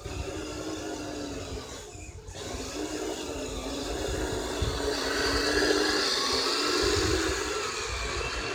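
Electric drive motor and gears of a Kyosho Blizzard SR radio-controlled tracked snow vehicle whining as it runs. The pitch wavers up and down with the throttle, and the sound grows louder and higher about five seconds in.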